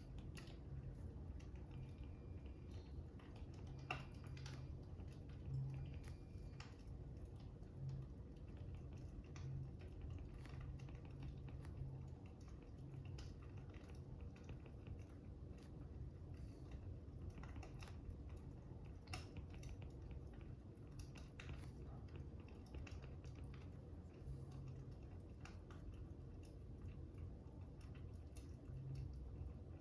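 Faint fire crackling: scattered small pops and snaps over a steady low rumble.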